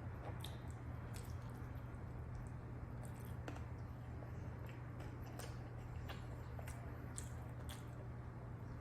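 Person chewing a Subway club sandwich close to the microphone: soft, wet smacking and mouth clicks come every second or so, over a steady low hum.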